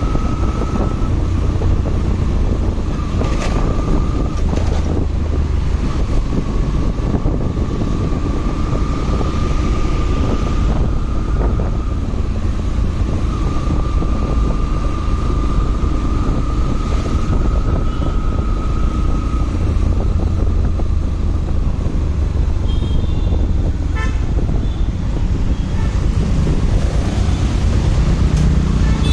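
Motorcycle riding in traffic, with a steady low rumble and wind noise on the microphone. A thin high whine runs through the first two-thirds, and a few short beeps sound near the end.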